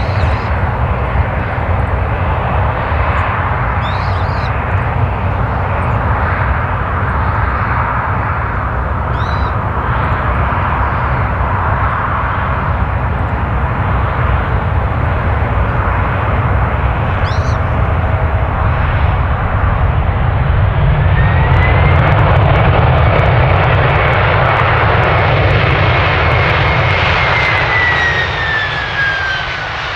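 Boeing 767-300 airliner's jet engines running loud, a deep rumble under a broad roar. About two-thirds of the way in a whine rises and holds, then falls in pitch near the end as the aircraft passes and the sound fades.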